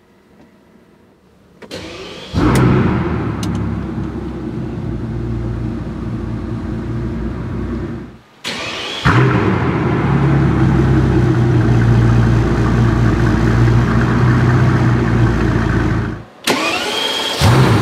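Brabus Rocket 900's twin-turbo V12 started up three times in a row. Each time there is a short crank, then the engine catches with a brief rising rev flare and settles into a loud, steady idle. The first start is heard from inside the cabin.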